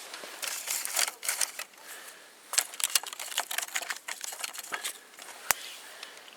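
Irregular rapid clicking and rustling, with one sharp click about five and a half seconds in.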